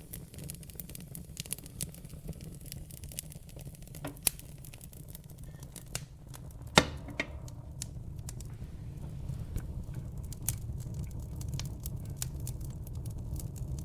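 Fire in a fireplace crackling, with frequent sharp pops and snaps over a low steady rumble. One loud pop comes about halfway through.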